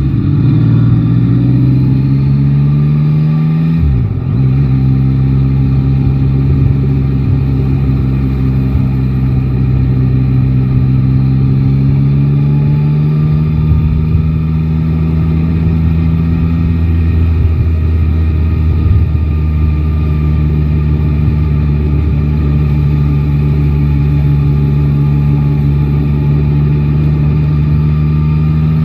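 Yamaha Tracer 9 GT's three-cylinder engine pulling up through the revs, with a quick gear change about four seconds in, then holding steady at cruising speed and starting to climb again near the end.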